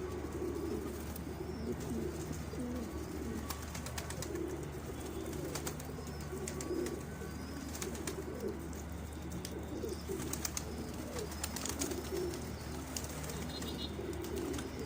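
Domestic pigeons cooing, several birds overlapping in a continuous low, repeated coo, with scattered sharp clicks among them.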